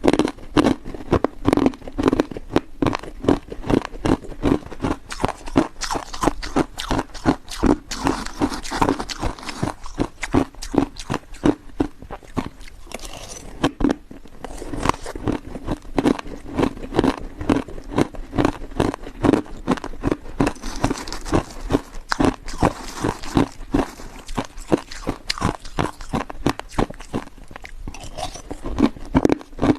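Hard ice being bitten and chewed close to the microphone: a steady run of crunches, several a second.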